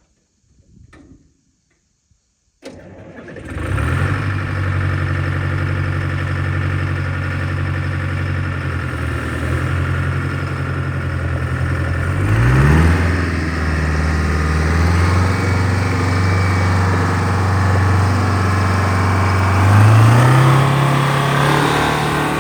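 Oliver 1900 tractor's General Motors 4-53 two-stroke blower diesel starting about two and a half seconds in and settling into a steady idle. There is a short rev near the middle, and near the end the speed rises to a faster steady run.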